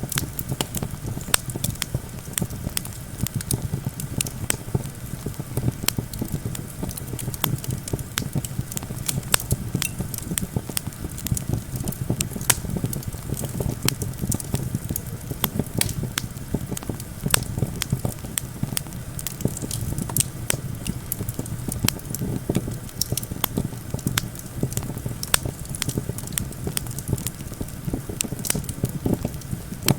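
Campfire crackling with many irregular sharp pops, over a low steady rumble of wind.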